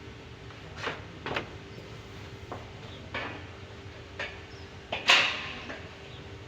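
A few irregular knocks and clanks of hard objects being handled, the loudest a little after five seconds in, over a steady low hum.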